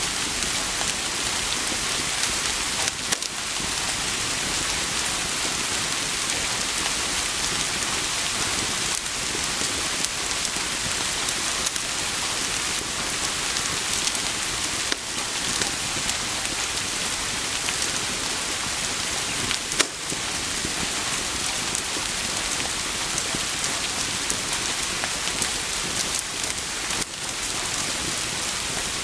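Steady rain: a dense, even hiss with a few sharp ticks here and there.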